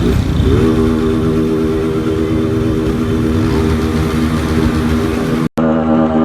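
Motorcycle engine running with wind and road rumble, its pitch rising slightly and then holding steady at a constant cruising speed. Near the end the sound cuts out briefly and music starts.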